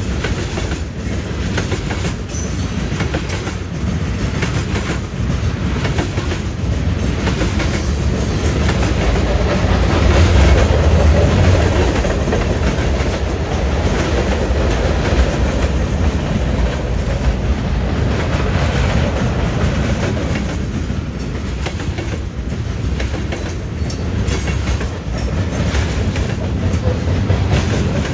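Train cars rolling past close by, their steel wheels clacking over the track in a steady stream. The rumble swells loudest about ten seconds in.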